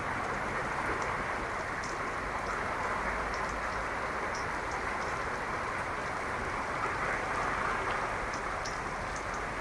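Heavy rain falling: a steady, even hiss with scattered small drip ticks.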